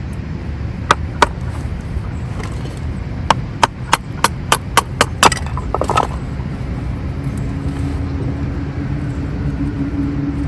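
Dry kindling wood cracking in sharp snaps: two about a second in, then a quick run of about eight snaps near the middle, as tinder and sticks are broken or split for a campfire. A steady low hum comes in later.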